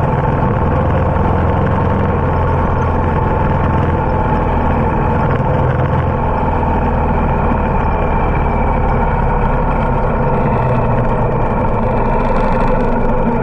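Harley-Davidson motorcycle engine running steadily at an even speed, with no change in pitch throughout.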